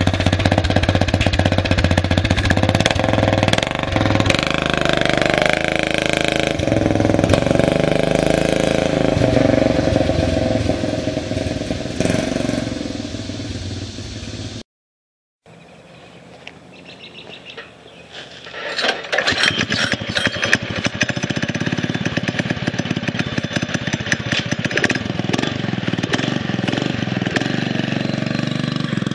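Predator 6.5 hp single-cylinder engine of a mini bike running, in two clips cut together. A short dead-silent gap comes about halfway through; the engine is faint for a few seconds after it, then loud again.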